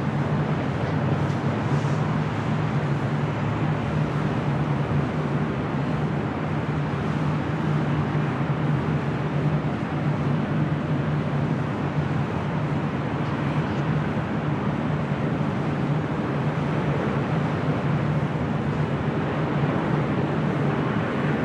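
Jet aircraft engines running steadily, a loud, even drone with a low hum that does not change.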